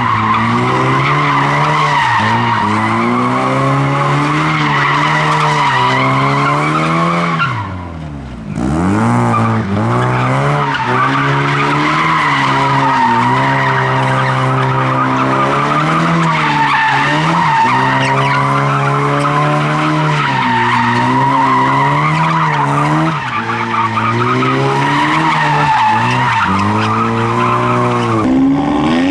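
A car doing a sustained burnout: the engine is held at high revs, wavering up and down, while the tyres screech continuously. About eight seconds in the revs drop sharply and then climb straight back up, and the screeching resumes.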